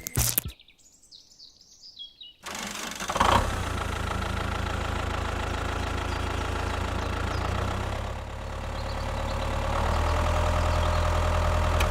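A small engine starts abruptly about two seconds in and runs steadily. It dips slightly and then picks up again, louder, in the second half. Faint bird chirps are heard before it starts.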